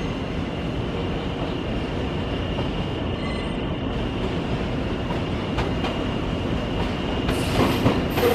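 Nankai electric commuter train moving through the platform tracks, with a steady running rumble and a thin high squeal. It grows louder near the end, with wheel clicks over rail joints and a falling high-pitched whine.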